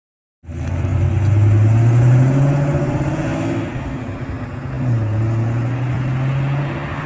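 Car engine running, its pitch rising about a second in, then dipping and climbing again near the middle as it revs.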